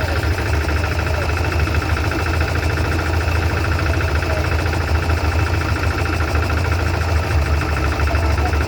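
An engine running steadily at an even speed with a deep, unchanging hum.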